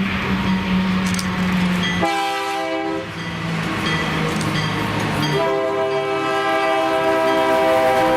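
Six-axle Alco diesel locomotive sounding its air horn: a short blast about two seconds in, then a long held blast from about five seconds in, over the locomotive's diesel engine drone.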